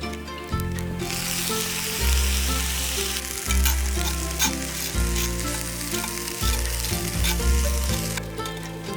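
Rice frying in a skillet, a steady sizzle that starts about a second in and stops near the end, over background music.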